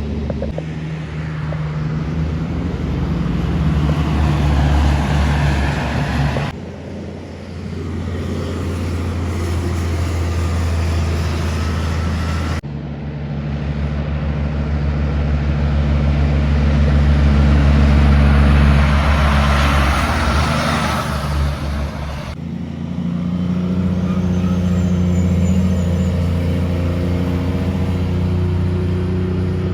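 Kenworth cabover trucks' diesel engines running as the trucks drive past, in several short clips with abrupt cuts between them. The loudest truck passes close about two-thirds of the way through.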